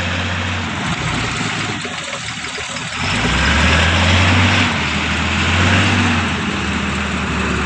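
Mitsubishi Canter dump truck's diesel engine running, dropping back briefly and then revving up in two surges under load.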